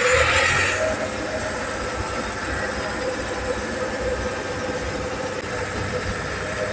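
Fahr M66 combine engine running steadily, with a short hiss at the very start lasting under a second.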